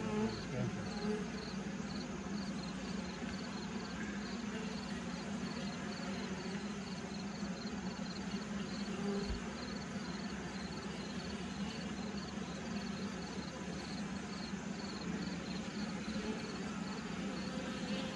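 Honeybees humming steadily in a low drone around an open horizontal hive, with a faint high insect chirp repeating about twice a second.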